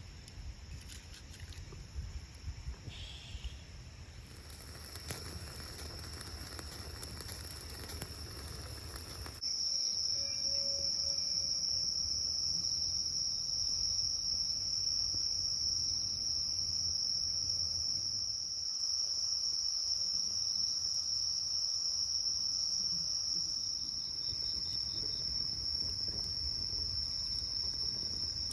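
Insects chirring, one steady high-pitched continuous drone like crickets, much louder after a sudden change about nine seconds in. In the first part a low rumble and a few small ticks lie under it.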